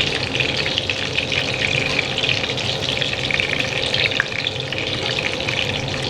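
Battered chicken lollipops deep-frying in hot oil: a steady, dense crackle and sizzle.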